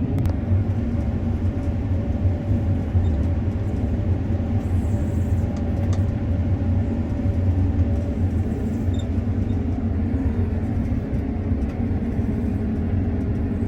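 Combine harvester running steadily, a constant low engine and machinery rumble with a faint steady hum above it, heard from inside the cab.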